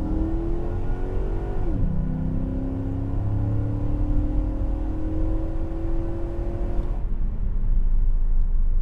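2006 Jeep Commander's 5.7 HEMI V8 through a custom true dual exhaust with an IMCO performance muffler, heard from inside the cabin with the windows up during a quick takeoff. It rises in pitch, drops sharply at a gear change about two seconds in, then pulls up again through the next gear before easing off near the end. The exhaust is pretty loud with no rasp.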